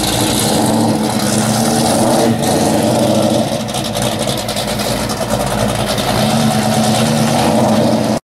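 Classic muscle car's engine rumbling through its exhaust as it pulls out onto the road and drives away, the revs rising and falling.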